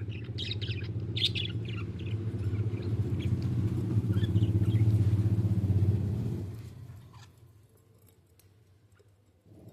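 Budgies chirping for the first second or so, then a low steady rumble swells to become the loudest sound and fades away about six and a half seconds in.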